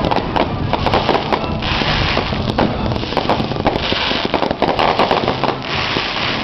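Fireworks display: many rapid bangs and crackles, with longer hissing crackle bursts about every two seconds.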